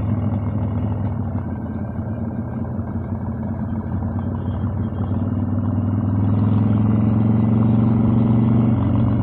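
Harley-Davidson Evolution air-cooled V-twin running on the road. About halfway through it grows louder and climbs in pitch under acceleration, then the pitch drops suddenly near the end.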